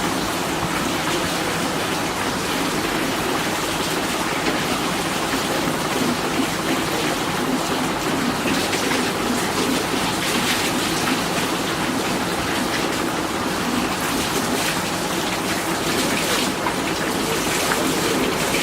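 Steady rushing noise of water, even throughout with faint patter on top.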